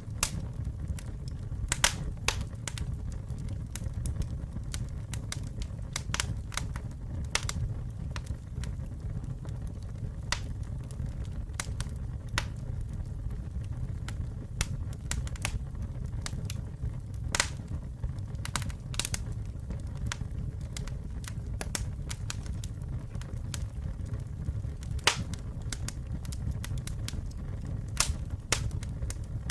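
Wood campfire burning with a steady low rumble of flames and irregular sharp crackles and pops, a few louder snaps among them.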